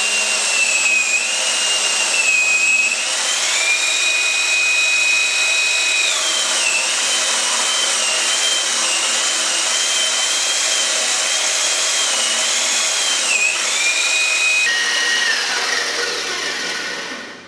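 Electric drill motor whining as it drives a homemade sugarcane juice machine. Its pitch sags and recovers several times as the load changes, then the sound fades out near the end.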